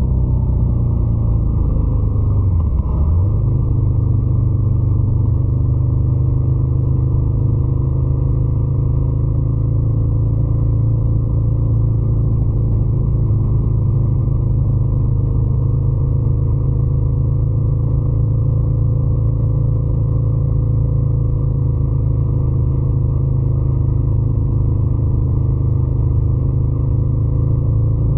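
Ducati Scrambler 800's air-cooled L-twin engine running at fairly steady revs, with a brief dip in revs and recovery about three seconds in.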